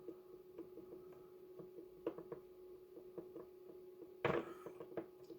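Faint, irregular clicking of a small rotary control knob being turned through the transceiver's menu, over a low steady hum, with one louder knock about four seconds in.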